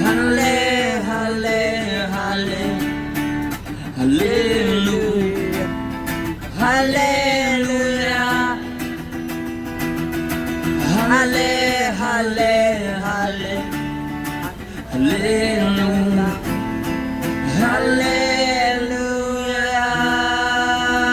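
A man singing long, sliding phrases, a new one about every four seconds, over steady strummed acoustic guitar chords: a slow worship song.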